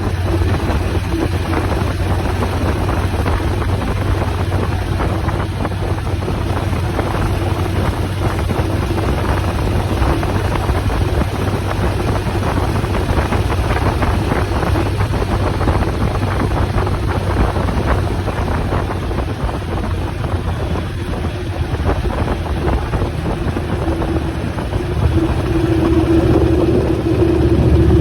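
Motorcycle engine running steadily while riding, with wind rushing over the microphone; the engine note grows louder near the end.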